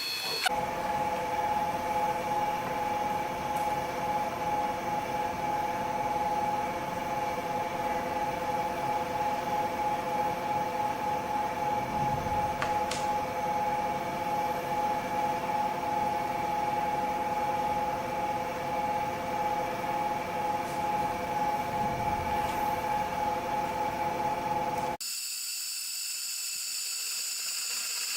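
Air-cooled handheld laser welding machine running: a steady hum with hiss and a few fixed tones. About 25 seconds in it cuts off abruptly, giving way to a thinner, higher-pitched steady tone.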